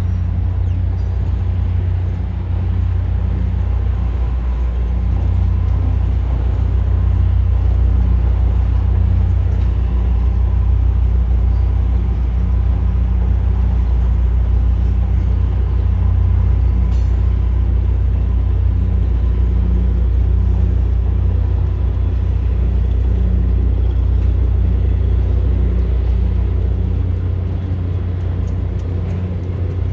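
Diesel train running with a steady low rumble and an even engine drone.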